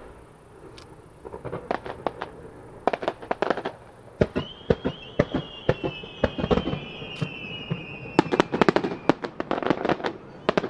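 Fireworks starmine: a rapid, irregular series of shell launches and bursts going off one after another, with a long whistle from about four seconds in that slowly falls in pitch.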